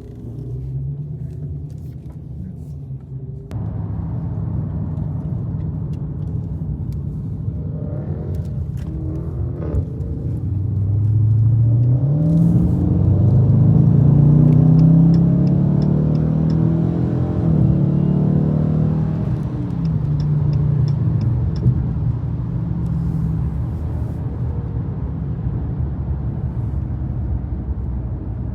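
Dodge Challenger Scat Pack's V8 engine cruising, then accelerating hard from about ten seconds in, rising in pitch through gear changes before easing back to a steady cruise.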